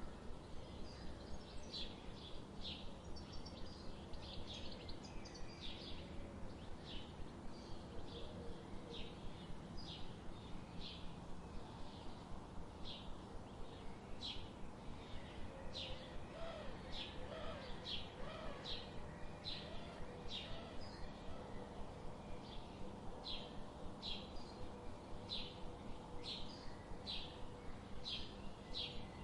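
Bird chirping: a short high chirp repeated about twice a second, steadily, over a low background hum.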